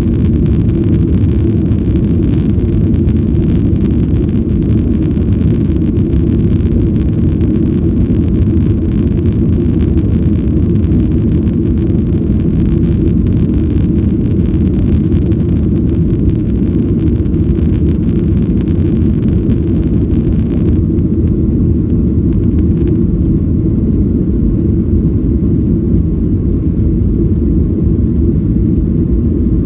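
Boeing 737-800 cabin noise: the CFM56-7B jet engines and airflow make a loud, steady, deep rumble. The higher hiss drops slightly about two-thirds of the way through.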